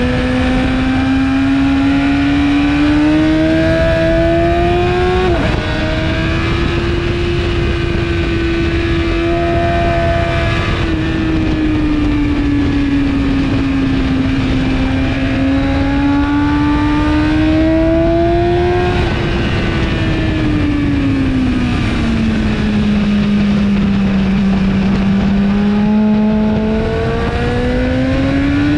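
2017 BMW S1000RR inline-four sport bike with an Akrapovic exhaust at high revs on track, its pitch rising under acceleration and dropping suddenly at an upshift about five seconds in. It falls away twice as the bike slows for corners, then climbs again near the end, over steady wind rush.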